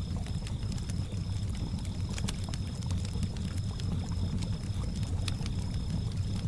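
Campfire ambience: wood fire crackling with occasional sharp pops over a steady low wash of lake water lapping. Crickets chirp in a high, evenly repeating pulse.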